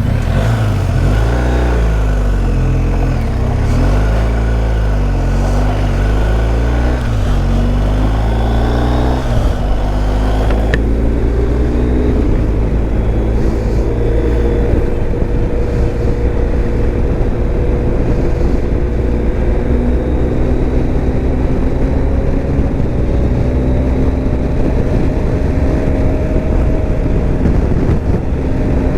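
Motorcycle engine running under way with wind rush. Its pitch swings up and down through roughly the first ten seconds as the bike changes speed, then it settles into a steady cruise with the pitch slowly climbing.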